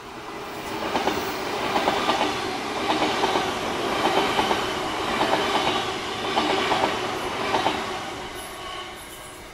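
Passing train, its wheels clickety-clacking over rail joints in groups of clicks about once a second; the sound swells in the first couple of seconds and fades away near the end.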